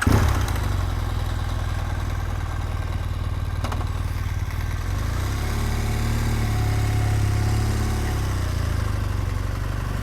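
BMW R1200GS Adventure's boxer-twin engine, just started and running steadily at idle. A single click comes a little under four seconds in, and the engine note rises and falls once in the second half.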